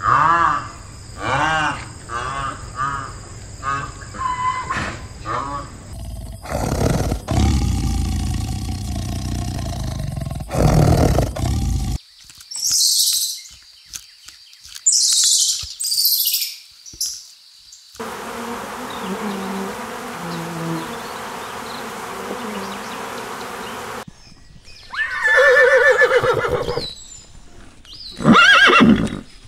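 A series of different animal calls in short clips that cut from one to the next about every six seconds, mostly rising-and-falling or falling cries.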